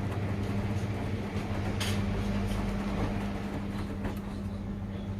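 Washing machines running early in a delicates 40°C wash, a steady low hum under a wash of noise, with a single sharp click about two seconds in.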